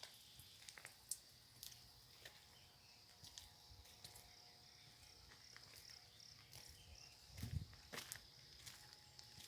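Faint outdoor ambience: a steady high insect drone, with scattered soft clicks and a dull thump about seven and a half seconds in.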